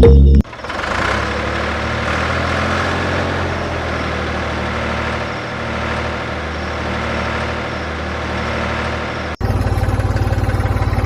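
A small engine running steadily with a noisy, rattling mechanical sound. About nine seconds in it cuts abruptly to a lower, rapidly pulsing run like an engine idling.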